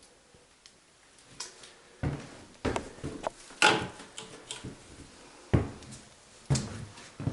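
Irregular knocks and thumps on hard surfaces in an empty room: footsteps and light knocking that start about two seconds in, the loudest knock near the middle.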